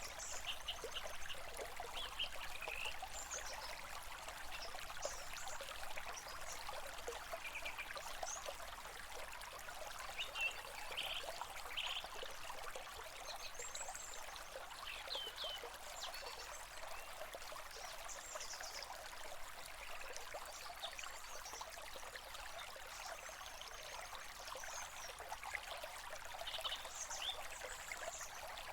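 A stream trickling and splashing steadily, with short, high bird chirps scattered throughout.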